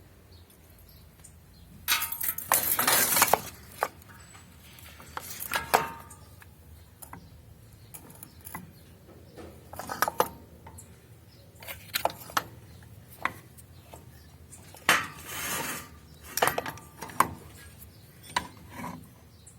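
Pieces of metal clanking and clinking against each other in irregular bursts, as when scrap is handled and sorted. The loudest clatter comes about two seconds in and again about fifteen seconds in, with scattered single clinks between.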